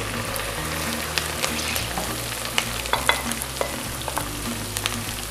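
Cut okra pieces going into hot mustard oil with fried onions and sizzling, a steady hiss with many scattered sharp clicks and pops.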